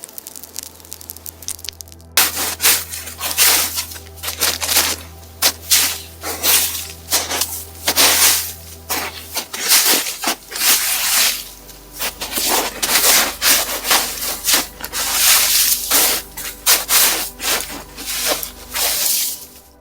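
Footsteps crunching through thawing spring snow at a steady walking pace, about two steps a second, starting about two seconds in.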